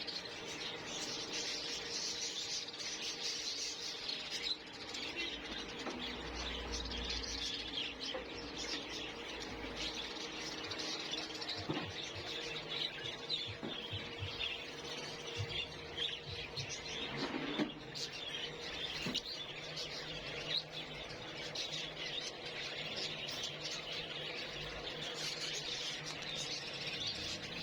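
Many budgerigars chirping and chattering at once, without pause, with a few short knocks and clicks among them and a faint steady hum underneath.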